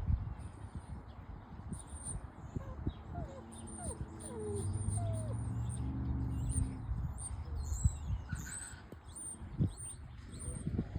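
Small birds chirping in many short, high-pitched calls, with a low hooting sound for about three seconds in the middle and scattered soft knocks.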